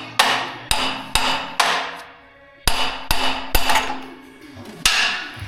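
A hammer striking metal, about nine sharp blows in two runs with a short pause around two seconds in, each blow ringing briefly.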